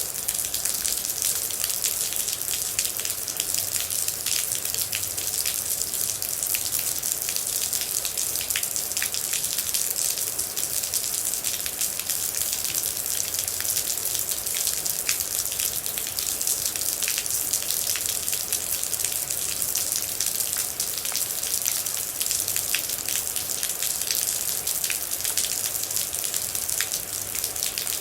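Steady rain, a dense even hiss with many separate drops striking close by.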